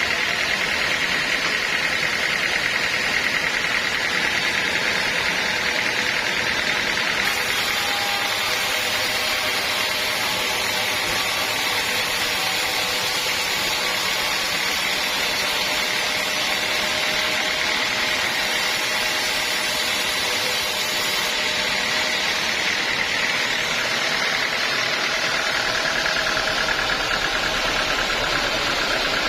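Sawmill machinery running steadily, with an even high whine over a noisy hum.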